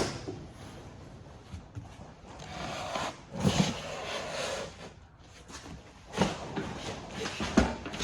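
Cardboard box and packing material handled as a chop saw is lifted out: rustling and scraping, loudest a few seconds in, then a few knocks.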